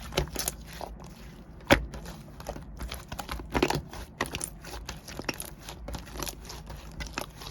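Soft white clay slime being squished and poked by hand, giving irregular sticky clicks and pops, with a sharper pop about two seconds in.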